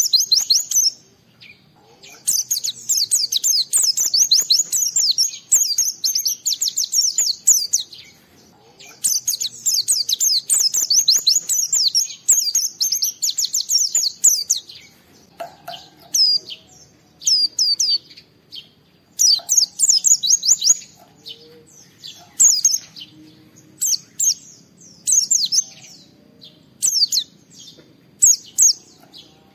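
White-eye (pleci) singing in fast, high twittering runs: two long unbroken strings of rapid notes in the first half, then shorter phrases with pauses between them. This is the continuous full song ("gacor", "ngalas") that keepers play to challenge other white-eyes and set them singing.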